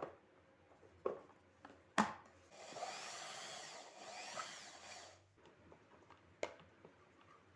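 Hand work at a bench during assembly: a few sharp clicks and knocks, the loudest about two seconds in, then a rasping rub or scrape lasting about two and a half seconds.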